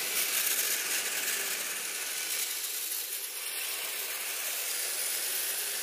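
Electric radio-controlled snow vehicle running steadily, a mechanical whir of its motor and gears with a hiss, as it pushes through deep powder snow.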